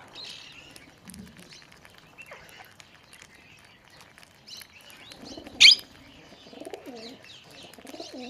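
Pigeons cooing in low, wavering phrases among scattered chirps of other birds, with one loud, sharp bird call about five and a half seconds in.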